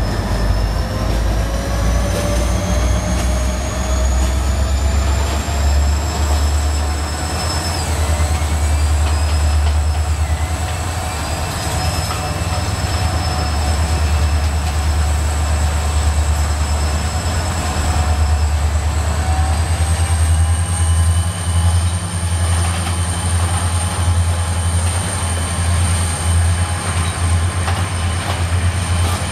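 Freight train wagons rolling past close by: a steady low rumble with long, thin high-pitched wheel squeal that slowly rises in pitch.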